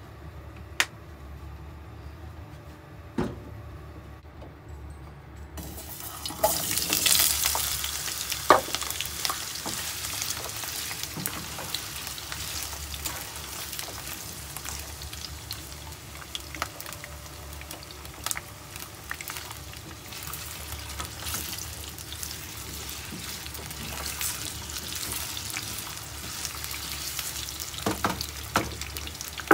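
Raw potato chunks hit hot cooking oil in a nonstick pan and start sizzling about six seconds in, then fry with a steady sizzle. Occasional clicks and knocks come from a wooden spatula stirring them against the pan.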